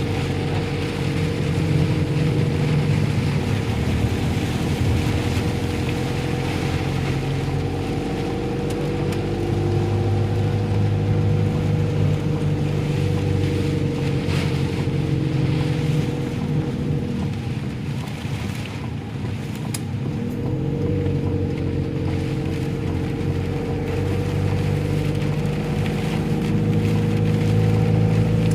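Steady hum of a running engine over a continuous hiss, with the pitch dipping and recovering briefly twice in the middle.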